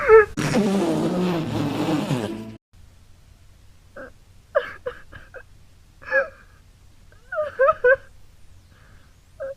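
A cartoon character crying: a loud, breathy wail that falls in pitch lasts about two seconds, then after a short pause comes a run of short, whimpering sobs.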